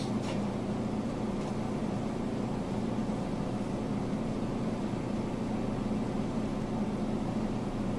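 Steady hum and rumble of an electric commuter train heard from inside the carriage as it pulls out of a station.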